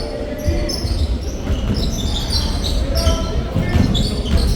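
Basketball bouncing on a hardwood gym floor during play, with sneakers squeaking in short, frequent chirps.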